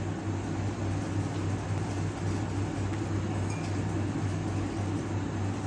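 A steady low hum with a background noise haze and no distinct events.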